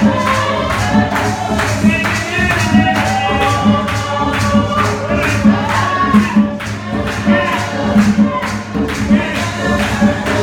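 Live gospel music: voices singing over a tambourine and a steady beat of about two strokes a second.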